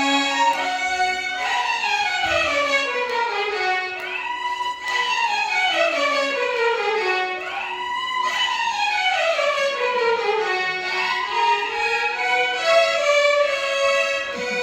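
Violin orchestra playing Carnatic music, the violins moving together in long sliding phrases that sweep down and then back up in pitch every few seconds.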